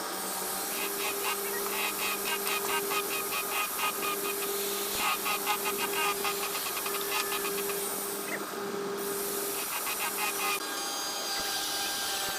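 A tool working wood: a steady hiss with stretches of fast, rasping strokes and a low hum that stops near the end.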